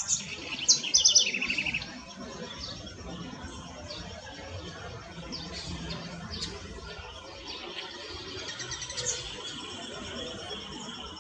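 Birds chirping: a quick run of sharp high notes in the first two seconds, then scattered single chirps, over a faint steady high-pitched tone.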